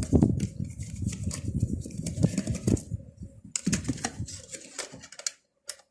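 Quick, irregular small clicks and light metallic clattering from parts and tools being handled, loudest at the start, with a short pause near the end.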